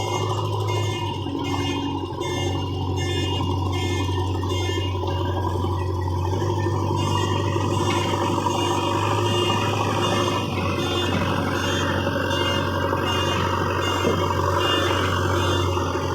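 Diesel engine of an earthmoving machine running steadily under work, with a repeating electronic beeping over it like a reversing alarm.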